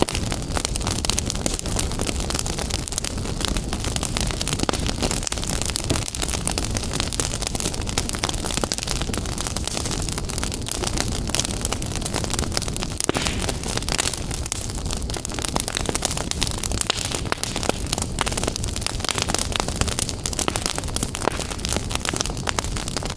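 Wood fire burning in a fireplace: a steady low rush of flames with dense, continuous crackling and small pops.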